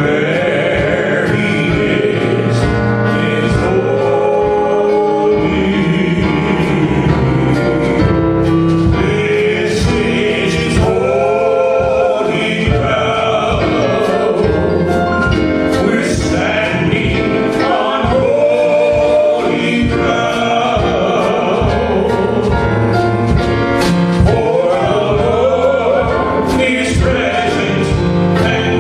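Gospel worship song: voices singing with musical accompaniment, the melody lines rising and falling throughout.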